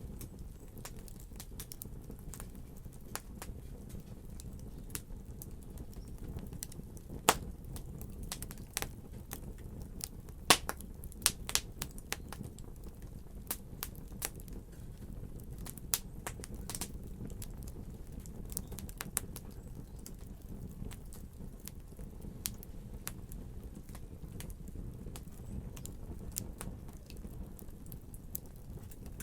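Fire crackling: a steady low rumble of burning with irregular sharp pops and snaps, thickest in the middle stretch, with a few loud pops.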